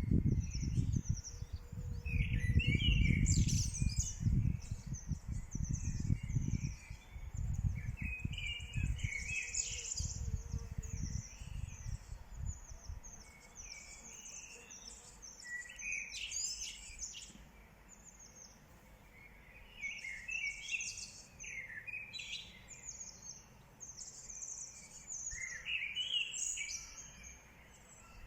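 Several small birds chirping and singing in short repeated phrases. A low rumbling noise underlies the first several seconds, then dies away.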